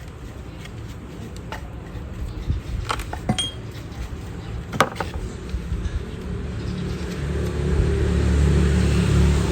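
A few light metallic clinks, like tools or small metal parts being handled. A low steady hum builds up about seven seconds in.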